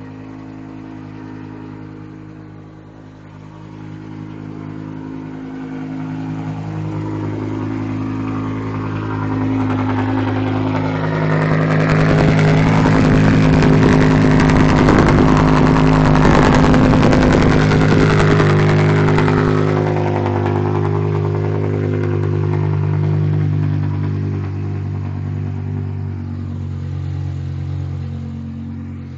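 BMW E60 M5's V10 engine running just after a cold start through a straight-piped exhaust, with a loud, raspy drone. The note holds a steady pitch that rises a little, swells to its loudest in the middle and eases back down near the end.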